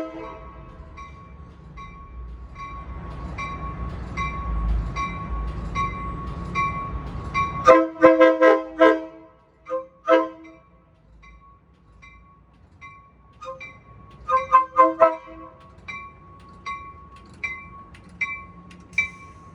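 A passenger train departing: its bell rings steadily, about one stroke every 0.8 s, over a building rumble, and short horn blasts sound twice, about eight seconds in and again about fourteen seconds in.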